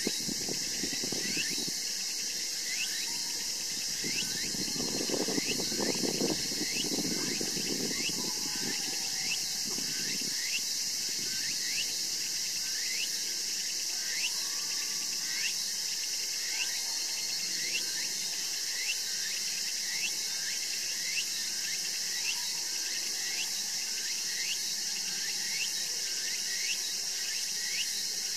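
Steady high insect chorus, with a short falling chirp repeating evenly about three times every two seconds. A low rumble sits underneath for the first ten seconds or so.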